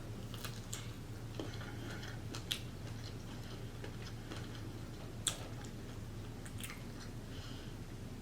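Close-miked chewing and wet mouth sounds of a person eating a spicy seafood boil, with a handful of sharp smacks scattered through, the loudest about two and a half and five seconds in, over a steady low hum.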